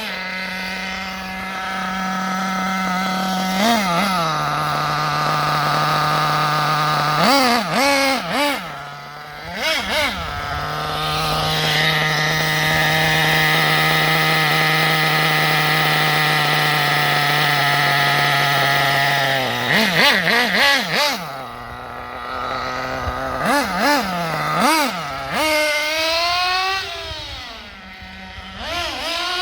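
Small .21 nitro engine of a Kyosho MP10 RC buggy idling, blipped about a dozen times so its pitch jumps up and drops back, with a long steady idle in the middle. The engine is being tuned from its break-in setting toward a steady single-stage idle.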